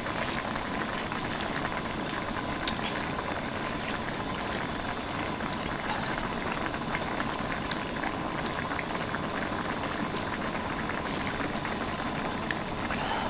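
Liquid boiling in a pot: a steady bubbling hiss with many small pops throughout.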